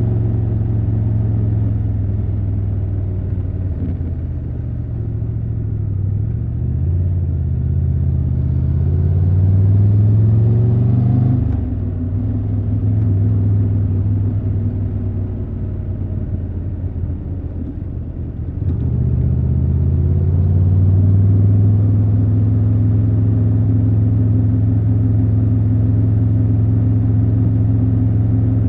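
Triumph Tiger 1200 Rally Pro's three-cylinder engine under way: a steady note that rises as it accelerates from about six seconds in, drops sharply at about eleven and a half seconds, sags, then steps up near nineteen seconds and holds steady to the end.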